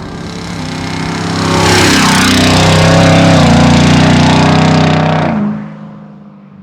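Ford F-150 Raptor R's supercharged V8 through a Borla aftermarket exhaust, the engine note building about two seconds in, held loud for a few seconds, then dying away quickly near the end.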